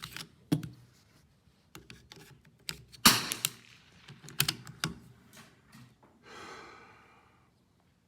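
Irregular series of sharp mechanical clicks and clacks, the loudest about three seconds in, then a short soft rustle near the end.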